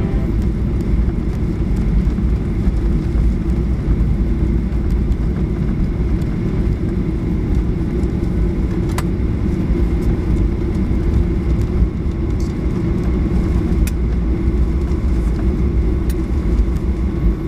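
Steady cabin rumble of a Boeing 737-800 on the ground after landing, its CFM56 engines and the rolling airframe making a low, even roar, with a few sharp rattling clicks.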